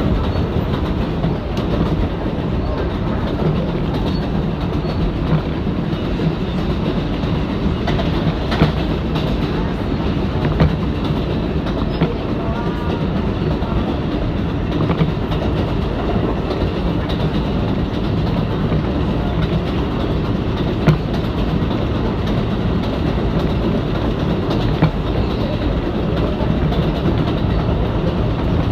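Interior of an R188 subway car running at speed on the 7 line: a steady rumble of wheels and motors, with scattered clacks from the rail joints.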